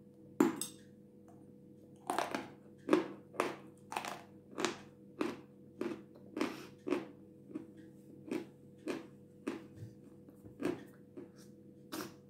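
A dry, powdery chunk of jasmin, a white edible chalky clay, is bitten off with one sharp crack about half a second in, then crunched in steady chews, about two a second.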